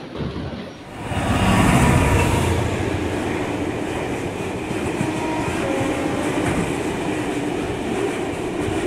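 Train running along the rails: a steady rumble and rattle of wheels on track that starts suddenly about a second in and keeps going.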